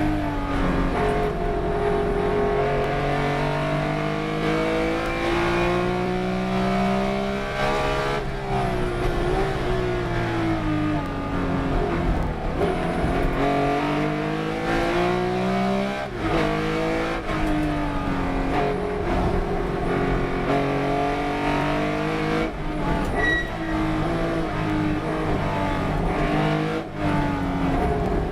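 Race car engine running hard lap after lap, its pitch repeatedly climbing under acceleration, then dropping sharply on gear changes and lifting off for corners.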